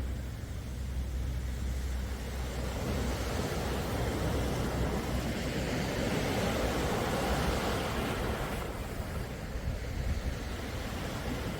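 Calm sea waves washing in, a swell building over a few seconds and easing off, over a low steady rumble.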